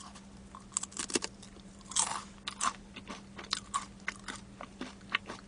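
A person chewing crispy boneless fried chicken close to a microphone: irregular crisp crunches and clicks, with a louder crunch about two seconds in.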